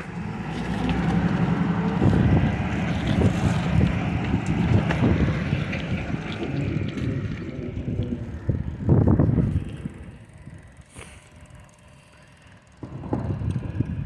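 Recycling truck engine running close by, with a louder surge about nine seconds in, then dying away to quiet before picking up again near the end.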